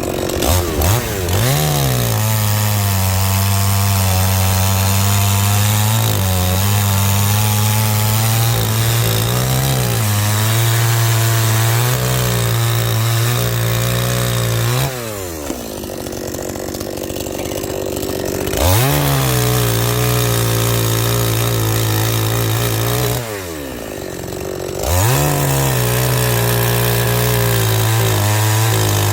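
Chainsaw cutting through firewood logs at full throttle, its engine dropping back to idle twice between cuts, about halfway through and again several seconds later, each time for a few seconds before revving up again.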